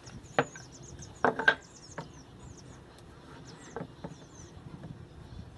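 A few sharp knocks, as of wood being handled or struck, two close together the loudest, over faint high bird-like chirping.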